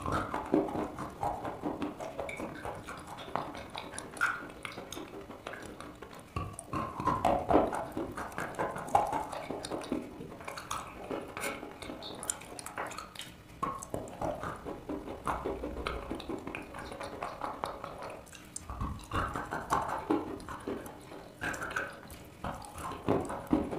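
Close-miked chewing of wet chalk: irregular wet crunches with sticky, squelching mouth clicks.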